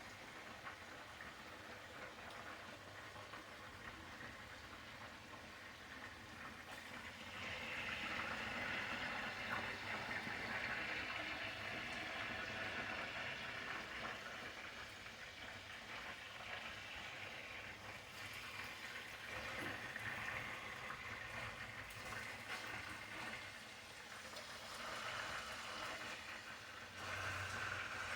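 Chicken pieces sizzling and crackling as they brown in hot oil in a pot: a steady hiss that grows louder about seven seconds in.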